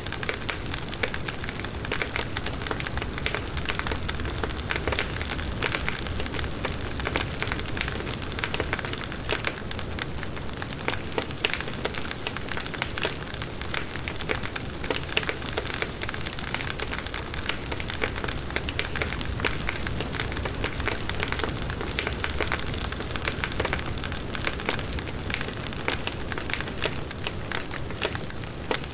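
Firewood burning in a campfire: a dense, steady crackle of many small pops and snaps, with a low rumble of flame underneath.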